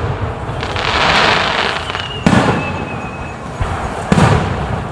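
Aerial fireworks: a crackling hiss of burst shells for the first couple of seconds, a thin whistle, then sharp booms of shells bursting about two and four seconds in.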